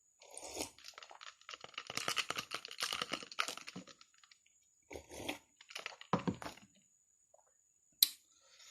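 Wet chewing and clicky mouth sounds of a person eating spicy instant noodles. They come in several bursts of rapid clicks, with one sharp click near the end.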